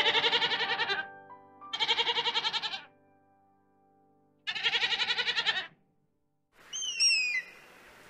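A goat bleating three times, each bleat about a second long with a fast quaver. Near the end, a hawk gives a high, falling call.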